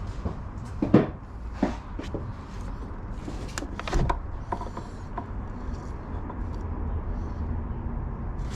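Handling noises in a workshop: a few sharp knocks and clicks, the loudest about a second in and another cluster about four seconds in, over a steady low rumble.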